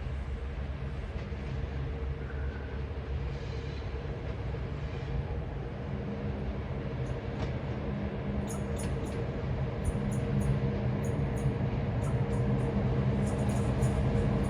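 A train arriving at a station: a low rumble that grows louder over the second half, with a steady hum in it. From about halfway through there is a run of sharp, high ticks.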